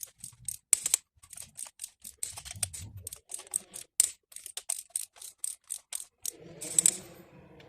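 Ratchet torque wrench clicking in quick runs of sharp ticks as spark plugs are tightened to spec, 28 Nm, with a duller rasping stretch near the end.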